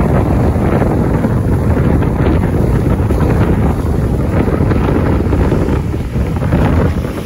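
Strong wind gusting and buffeting the microphone in a loud, steady rumble with small swells.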